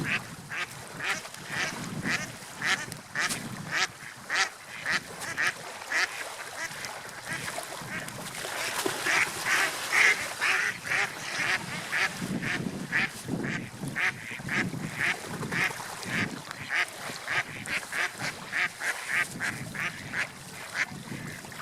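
Bird calls, short and rapidly repeated at about two a second, over a steady low rush of wind or water; the calls are loudest about halfway through.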